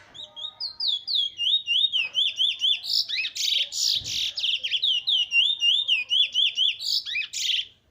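Trinidad bullfinch, a black songbird, singing a fast, unbroken song of repeated sweeping whistled notes, about three or four a second. It breaks into denser, louder chattering passages about three seconds in and again near the end, then stops.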